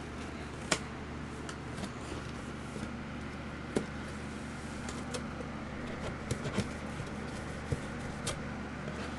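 Scattered sharp clicks and taps of handling packaging, the loudest about a second in and a cluster near the end, over a steady low room hum.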